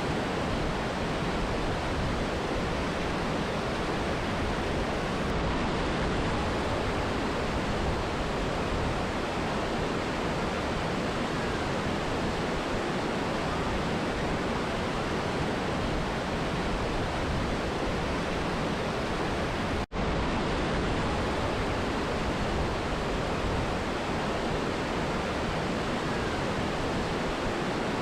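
Mountain river and waterfall water rushing steadily, an even, dense wash of noise. There is a split-second dropout about two-thirds of the way through.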